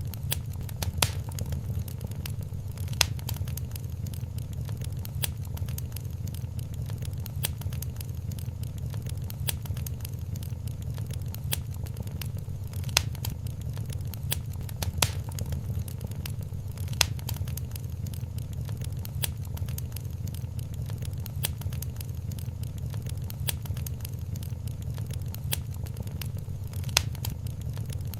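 Wood fire crackling in a fireplace: many small crackles and a few sharper pops every couple of seconds over a steady low rumble of the flames.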